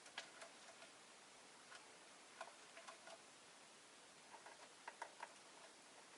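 Faint, irregular small clicks and taps in a few short clusters over near-silent room hiss, from a rosy-faced lovebird in its cage.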